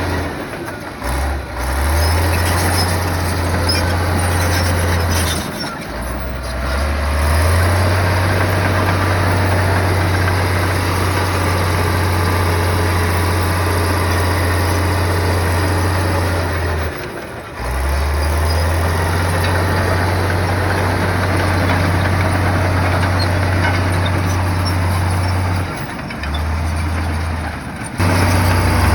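Heavy bulldozer's diesel engine running hard under load, a loud, steady low drone with mechanical noise over it. It dips briefly in level and pitch several times, as the throttle is eased and opened again.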